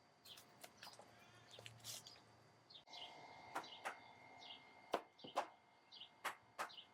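Small birds chirping in short repeated calls, with scattered sharp clicks mixed in throughout.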